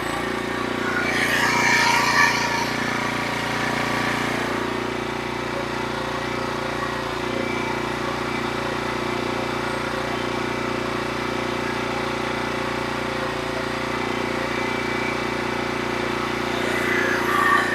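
Norwood HD36V2 portable sawmill's engine running steadily, with a louder rushing sound over it for a few seconds near the start and again just before the end.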